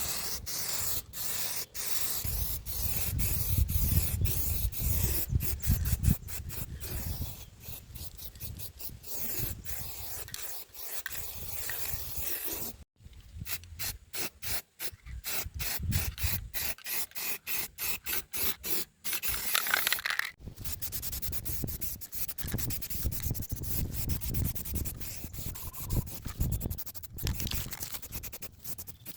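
Rubbing and scraping on the solid-wood speaker cabinet, as in sanding and finishing work, heard as many short clips cut together with sudden breaks.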